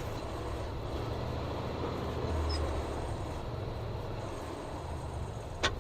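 Steady low rumble of a vehicle running and moving on the road, heard from the driver's seat, with one short click near the end.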